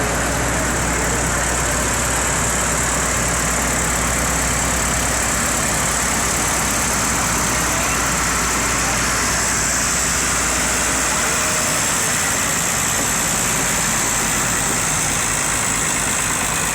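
Tractor engine running steadily, its low hum fading out about two-thirds of the way through.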